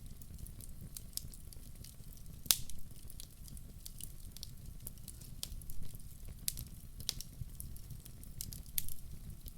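Wood fire crackling in a fireplace: irregular sharp pops and snaps, one louder pop about two and a half seconds in, over a steady low rumble of the flames.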